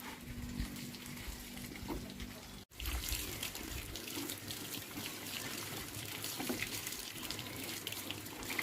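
Water running and splashing, with an abrupt cut about three seconds in after which the splashing is denser.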